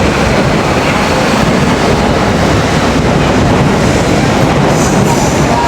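A train running with a steady, loud rumble and rail noise, with a faint high-pitched squeal near the end.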